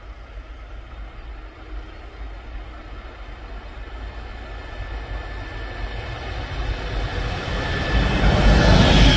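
A train approaching on the railway line, its rumble growing steadily louder and peaking near the end.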